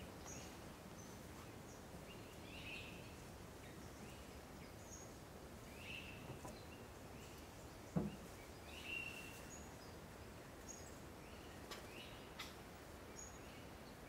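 Faint swamp-forest ambience with a bird repeating a short call every few seconds and a few other higher chirps. A single brief knock sounds about eight seconds in.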